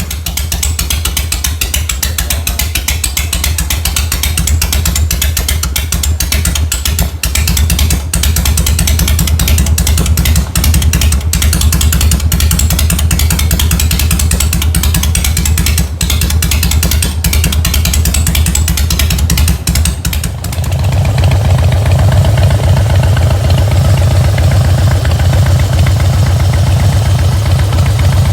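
Harley-Davidson air-cooled V-twin motorcycle engine running steadily with an even firing pulse. About twenty seconds in, the sound changes abruptly to a deeper, heavier one.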